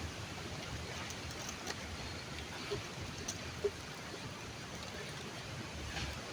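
Steady rush of flowing stream water, with two brief faint clicks a little past the middle.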